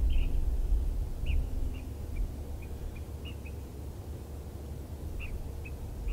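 A small bird giving about a dozen short, high chirps at irregular intervals, over a steady low rumble.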